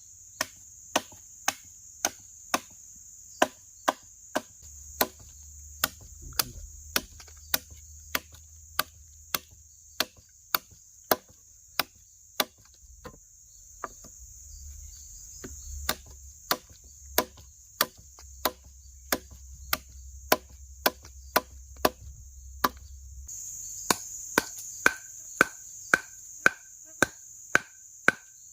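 Steady, evenly paced chopping strokes with a blade, about one and a half to two a second. Behind them is a steady high drone of forest insects, which grows louder near the end.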